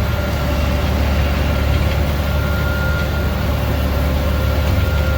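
Combine harvester's engine running steadily: a low rumble with a faint, steady whine above it.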